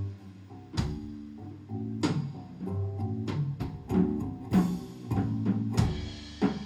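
Live band playing an instrumental passage: electric guitar and bass over a drum kit, with several sharp drum and cymbal hits.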